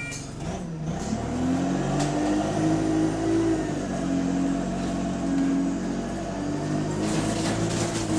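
Bus diesel engine pulling away and accelerating, its pitch rising, dropping back at a gear change about four seconds in, then climbing again near the end. The bus has an exhaust leak.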